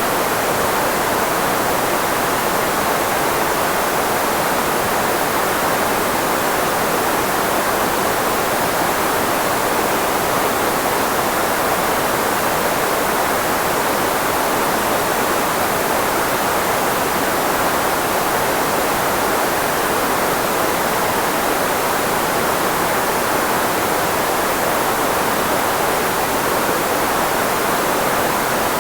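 Steady filtered white noise used as a speech blocker: an even, unbroken hiss, strongest in the middle range where voices sit and thinner in the bass.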